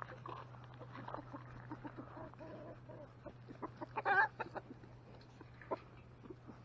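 Chickens clucking close by, with one louder, wavering squawk about four seconds in, over a steady low hum.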